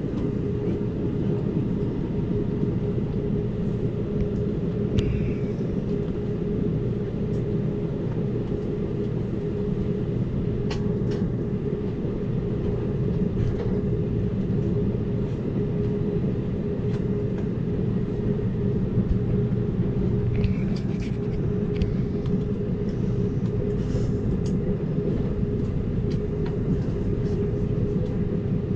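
Amtrak Cascades passenger train running at speed, heard from inside the coach: a steady rumble of the wheels on the rails with a constant hum, and a few faint clicks and short squeaks from the car.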